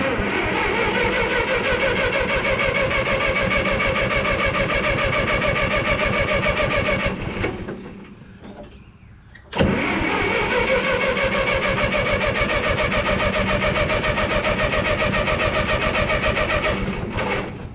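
The 1954 Minneapolis-Moline UBU's gasoline engine is turned over by its electric starter in two long bursts of about seven seconds each, with a short pause between. Each burst starts with a rising whine and cranks evenly, and the engine never catches.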